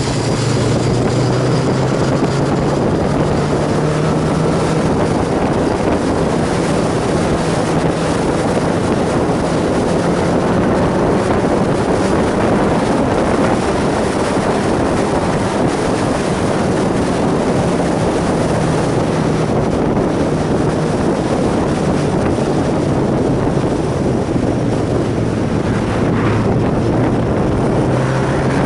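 Sport motorcycle engine running steadily on the move, with wind rushing over the microphone. The engine pitch holds fairly even, sags a little late on and then climbs again near the end.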